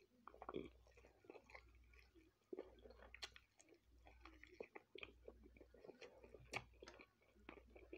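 Faint close-up chewing of food, with irregular small wet mouth clicks and smacks several times a second.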